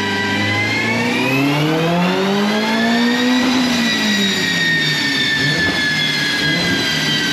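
Mitsubishi Lancer Evolution X's turbocharged 4B11 four-cylinder engine revving on a roller dynamometer during a power pull. It climbs steadily in pitch for about three and a half seconds, then winds slowly back down, with a high whine running along with it.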